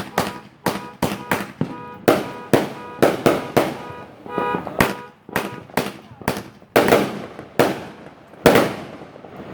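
Old Ironsides consumer firework firing: a rapid, irregular volley of about twenty sharp bangs, several close together, with a faint whistling tone under some of the reports.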